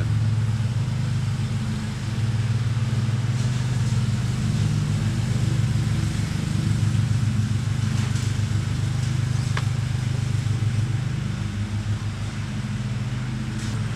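A steady low mechanical drone, like a small engine running, with a faint click about nine and a half seconds in.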